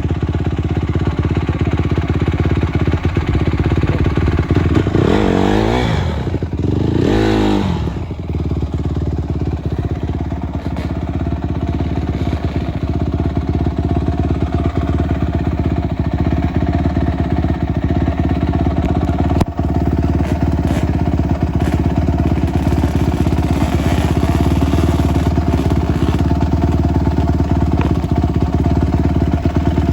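Motorcycle engine running steadily, its revs rising and falling twice about five to eight seconds in, with a single sharp click near the middle.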